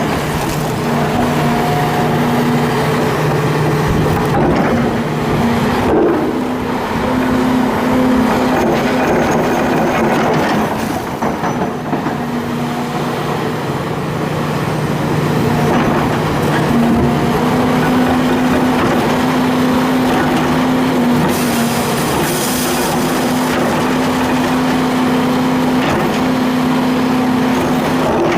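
Hitachi excavator's diesel engine running steadily under working load, its tone shifting a little several times, over a rough clatter and scrape of concrete being broken.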